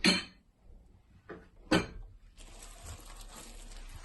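Two short knocks about a second and a half apart, from kitchen things being handled, with a fainter knock between them; then a faint steady hiss.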